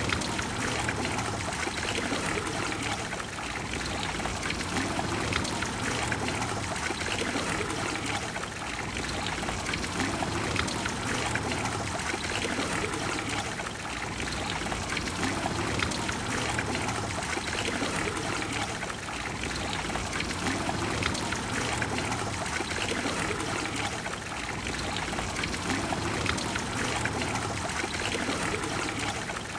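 Water of the Trevi Fountain falling and splashing into its basin in a steady rush.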